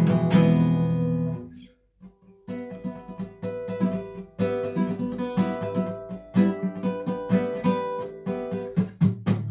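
Six-string Sire A3 acoustic guitar: a strummed chord rings out and fades to a brief pause about a second and a half in, then single picked notes follow in an instrumental passage, with strumming coming back near the end.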